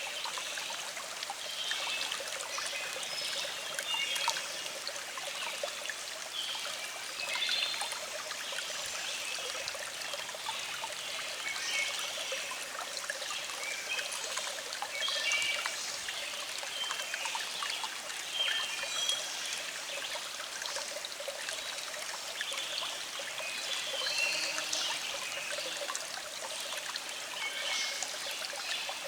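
Small stream flowing and trickling steadily, with birds singing in the background in short high chirps scattered throughout.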